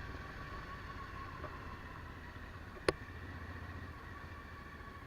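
Suzuki V-Strom DL1000's V-twin engine running steadily while riding, with road noise, and a single sharp click about three seconds in.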